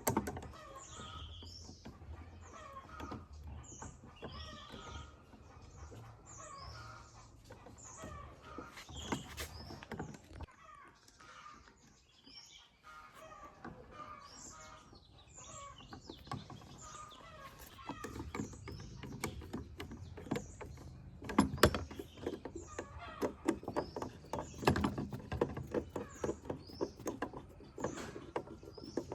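Small birds chirping in the background over irregular clicks and knocks of handling and hand work, which grow busier and louder in the second half.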